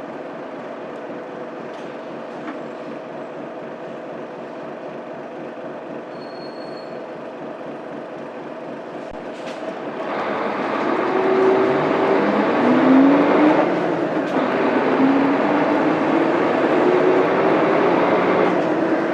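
Mitsubishi Fuso Aerostar bus's 6M70 12.9-litre six-cylinder diesel, heard from inside the cabin. It runs steadily and fairly quietly for about ten seconds. Then it grows louder as the bus accelerates, its note rising, dropping back at a gear change, and rising again.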